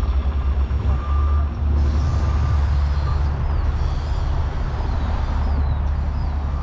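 Wind buffeting the microphone of a rider on a moving bicycle: a steady, loud low rumble, with faint short high chirps repeating in the second half.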